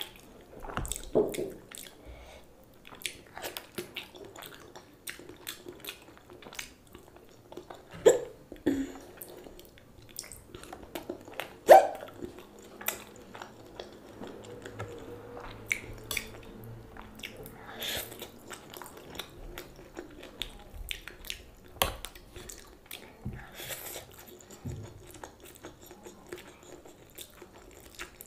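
Close-up mouth sounds of a person eating boiled egg and chow mein noodles: irregular wet chewing, lip smacks and clicks, with a few louder bites or swallows, the loudest about twelve seconds in.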